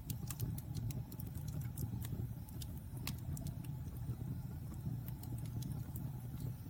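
Wood fire in a fireplace crackling, with many sharp irregular pops over a steady low rumble of the flames.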